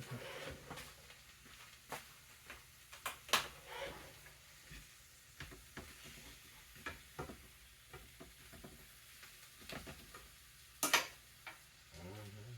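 Scattered light clicks and knocks of kitchen utensils and cookware, sharpest about three seconds in and near the end, over a faint steady hiss of food frying in a pan.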